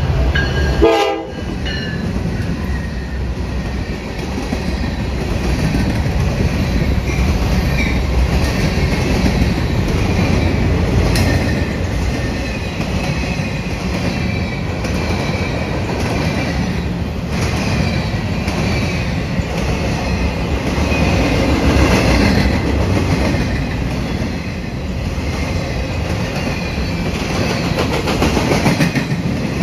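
Norfolk Southern freight train passing close by: a short horn blast about a second in as the diesel locomotive goes past, then a steady clatter and rumble of freight car wheels over the rail joints, with faint wheel squeal.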